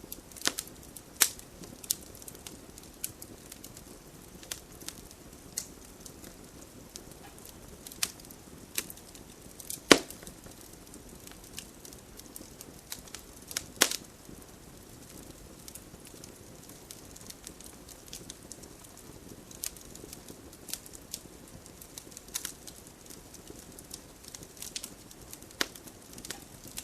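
Wood campfire burning with irregular crackles and sharp pops over a faint steady hiss; the loudest pops come about ten and fourteen seconds in.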